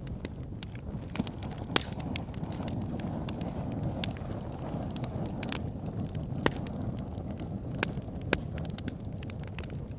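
Wood fire burning in a fireplace: a steady low rumble of flames with irregular crackles and a few sharper pops of burning logs.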